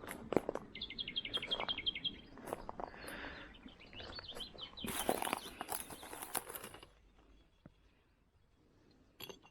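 Footsteps crunching and crackling through dry leaves and sticks, with a bird giving a rapid run of short chirps about a second in. The steps stop about seven seconds in, leaving a quiet stretch before a few more crackles near the end.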